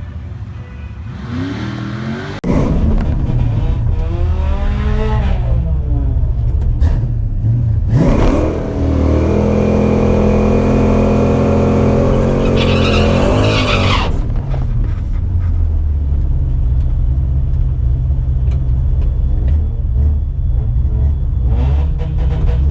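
Drag-strip car engine revving hard, cutting in loudly about two and a half seconds in. It pulls hard with a rising and falling pitch through the middle, then drops to a steady low rumble.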